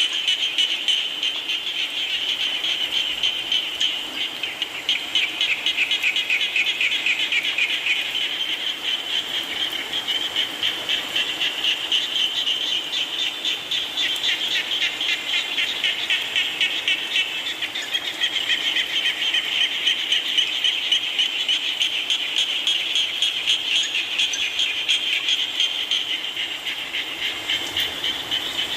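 A dense chorus of frogs calling, many rapid pulsed trills overlapping into a steady, continuous sound, over a constant hiss of falling rain.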